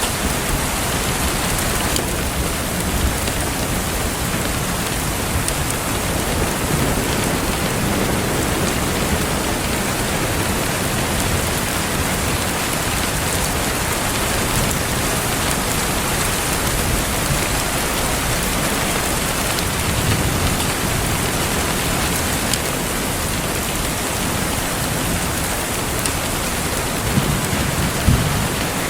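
Steady rain falling as a continuous, even hiss, with a few brief low pops about three seconds in and again near the end.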